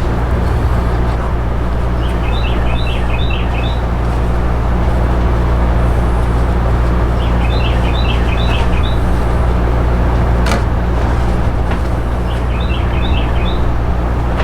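A steady low hum over a constant rush, with a songbird singing a short burst of quick chirps three times, about five seconds apart, and one sharp click a little past halfway.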